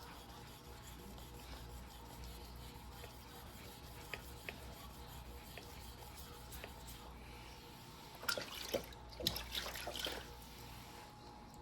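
A white #2 steel yanagiba being hand-sharpened on a wet whetstone: quiet, steady rubbing, with a cluster of louder, sharper sounds about eight to ten seconds in.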